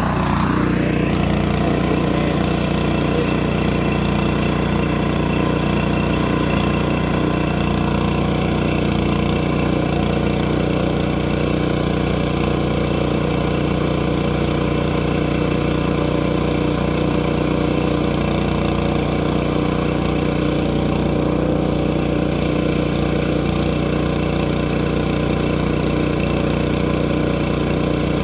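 Engine of a log-milling machine running at a steady speed. Its pitch rises briefly in the first second, then holds.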